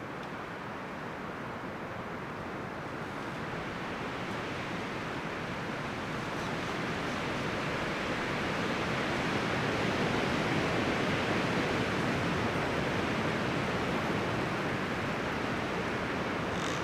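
Wind blowing through forest trees, leaves and branches rustling in a steady rush that swells gradually to its strongest about ten seconds in.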